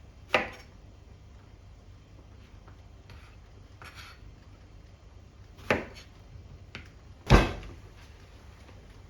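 A few separate sharp knocks and clunks of objects being handled and set down, the loudest about seven seconds in with a dull thud.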